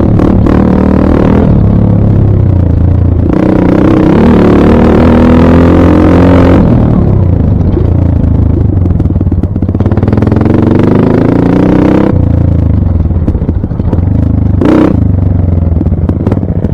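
Dirt bike engine revving up and dropping back several times as it is ridden, its pitch climbing and falling over a steady low rumble.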